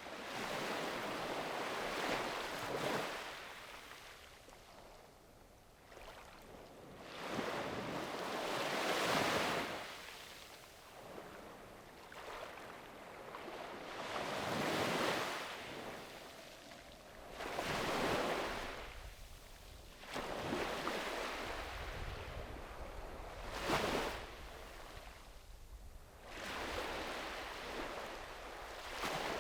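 Small sea waves breaking and washing up a beach, one surge every few seconds, with a faint low rumble of wind about two-thirds of the way through.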